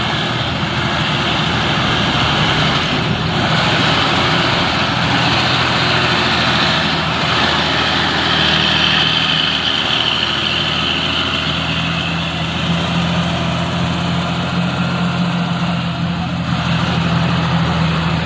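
Heavy truck's diesel engine running steadily and loudly, with a dense mechanical noise above its low note, which shifts slightly about twelve seconds in.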